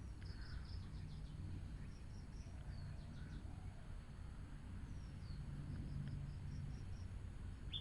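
Faint birds chirping in the background, short high chirps in quick runs with one falling call about five seconds in, over a low steady hum.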